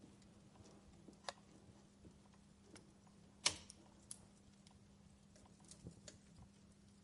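Fireplace crackling: faint scattered pops and clicks, one sharper pop about halfway through, over a faint steady hum.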